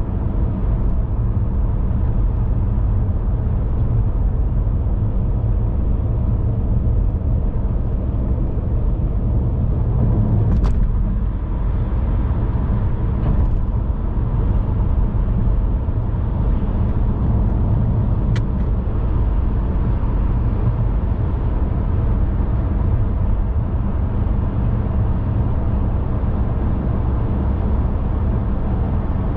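Car driving at a steady pace: a continuous low rumble of road and engine noise, with two brief clicks, about a third of the way in and a little past the middle.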